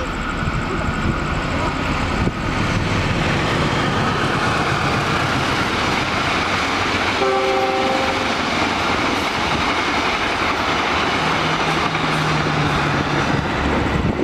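A passing train's wheels and cars making a loud, steady rolling roar, with a short horn blast about seven seconds in.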